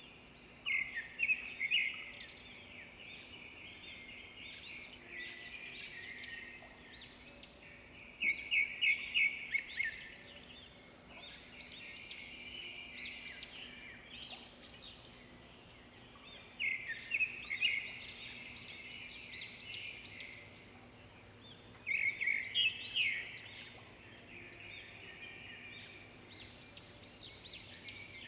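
Songbirds singing: loud phrases of rapid, repeated notes come every four to five seconds over a continuous background of softer chirping.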